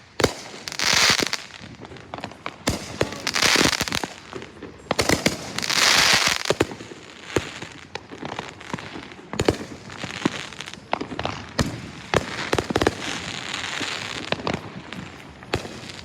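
Fireworks going off: many sharp bangs and pops, with hissing, crackling bursts about a second long every couple of seconds.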